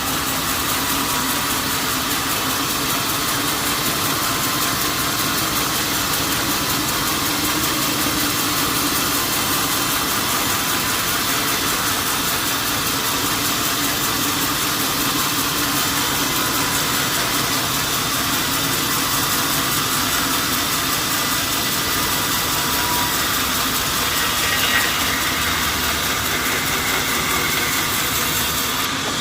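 A steady mechanical hum and hiss, like an engine or motor running evenly.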